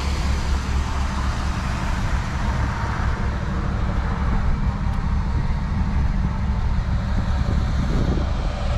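1984 Chevrolet El Camino engine idling steadily, a low even rumble that runs strong.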